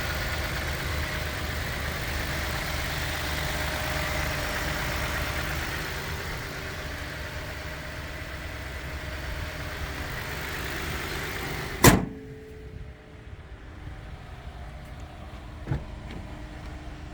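2022 Toyota Tundra's 3.5-litre twin-turbo V6 idling steadily with the hood open, then the hood slammed shut about twelve seconds in, after which the engine is much quieter and muffled. A small click comes a few seconds later.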